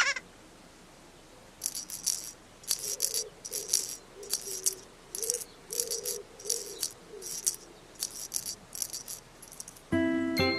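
Children's-programme soundtrack: a shaker rattles in short strokes, two or three a second, over a faint wavering low tone, after a bright ping at the start. Near the end, light glockenspiel-like music comes in.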